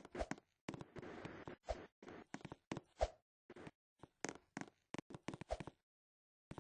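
Faint, irregular knocks and taps, with a short rustle about a second in and a quiet gap near the end.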